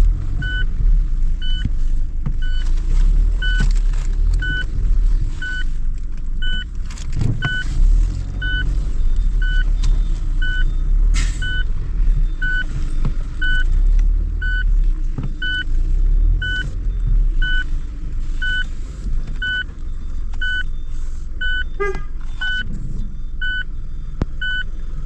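A truck backing up, its reversing alarm beeping steadily about once a second over the low rumble of its engine.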